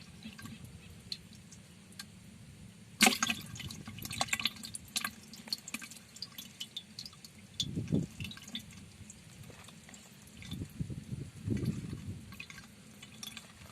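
Water splashing and dripping in irregular bursts: a sharp splash about three seconds in, then scattered small splashes and drips, with a couple of dull thumps later.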